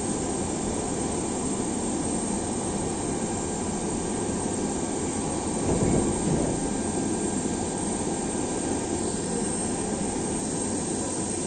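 Steady jet aircraft engine noise, with a brief louder swell about six seconds in.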